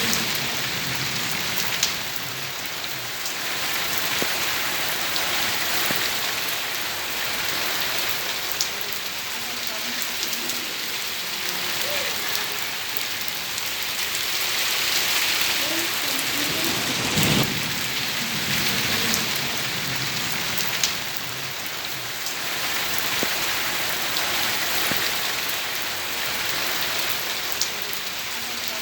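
Steady rain falling onto hard surfaces, with occasional louder single drops or drips a few seconds apart.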